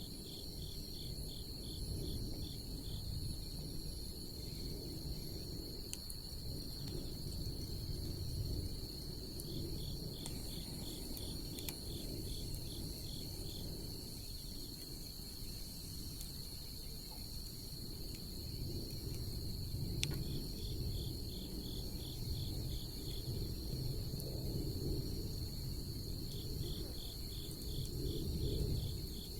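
Bonfire burning with a steady low rustle and a couple of sharp pops, under a night chorus of insects: a continuous high drone, with a chirping insect calling in rapid trains of pulses every several seconds.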